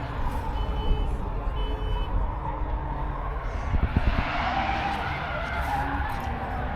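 A car driving by: engine and tyre noise swelling from about three and a half seconds in and fading near the end, over a steady low rumble.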